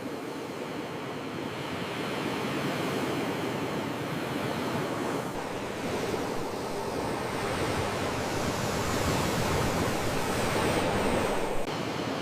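Sea waves washing ashore in a steady wash of surf that swells and eases over several seconds, with a sudden drop in level near the end.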